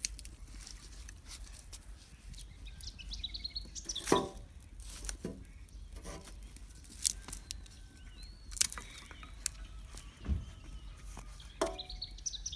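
Campfire of sticks and charcoal burning after a dose of lighter fluid: irregular sharp crackles and pops, a few louder cracks spaced a couple of seconds apart.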